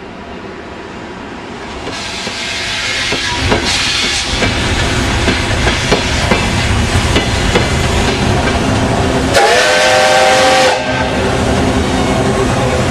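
Soviet L-class steam locomotive L-0022 running, its noise and steam hiss growing louder from about two seconds in, with scattered clicks. About two-thirds of the way through it sounds a short whistle blast of about a second and a half, with a slight rise in pitch at the start.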